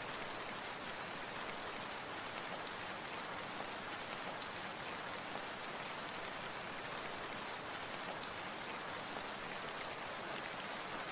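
Steady sound of water, an even, unchanging hiss with a fine pattering texture.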